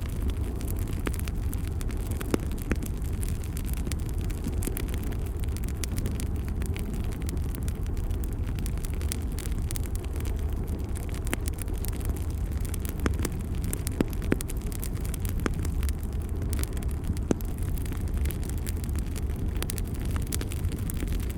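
Bonfire burning: scattered sharp crackles and pops from the burning wood over a steady low rumble.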